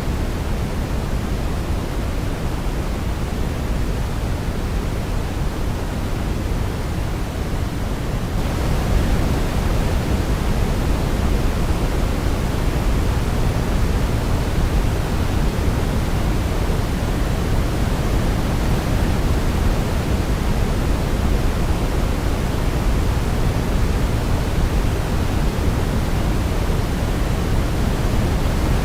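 Steady white noise for baby sleep: an even rushing hiss, heavier in the low end like pink noise. About eight seconds in it steps up slightly louder and brighter.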